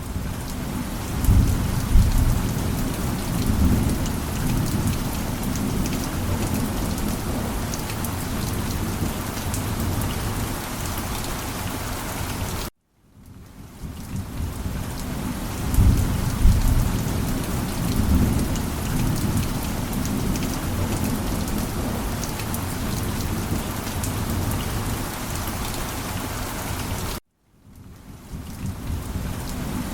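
Steady heavy rain with low rolls of thunder, the thunder strongest a few seconds after each fade-in. The sound cuts out to silence twice, about a third of the way in and near the end, then fades back up: a short rain-and-thunder recording played on a loop.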